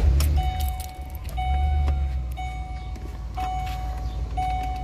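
Ford Explorer engine started with the key and running at idle, a low steady rumble. Over it the dashboard warning chime sounds five times, about once a second, and there are a few key and switch clicks.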